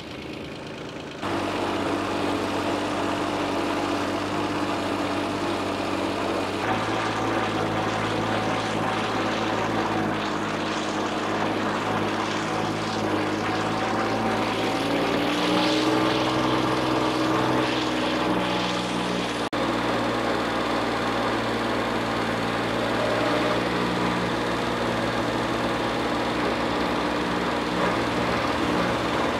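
Diesel engines of earth-moving and farm machinery running steadily, with the engine note shifting as it revs. The sound changes abruptly about a second in and again about seven seconds in.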